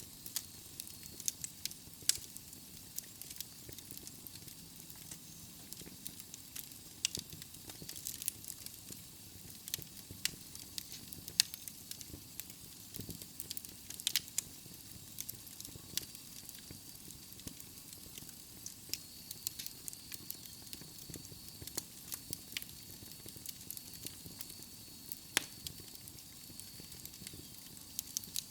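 Wood fire burning in a fireplace: a steady low hiss with frequent irregular sharp crackles and pops from the burning logs.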